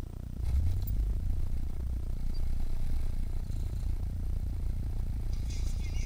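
Car engine idling, heard from inside the cabin: a low, steady rumble that grows louder about half a second in.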